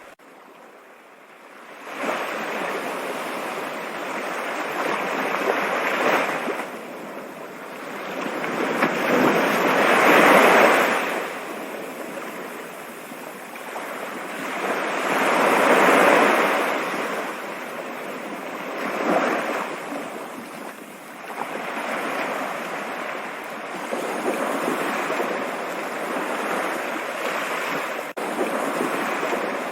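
Rushing water, a steady hiss that comes up about two seconds in and then swells and eases in slow surges, loudest about ten and sixteen seconds in.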